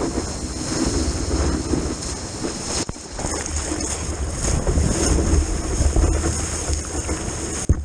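Wind buffeting a helmet-style action camera's microphone over rushing ocean water and breaking surf, with a low rumble throughout and a brief break about three seconds in.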